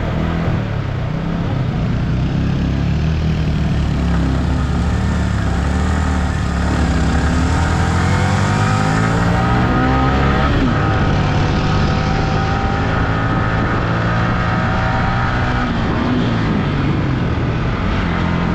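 Yamaha R15 V3's single-cylinder engine running under load as the motorcycle climbs a hill road, its pitch rising and falling with the throttle, under a steady rush of riding noise.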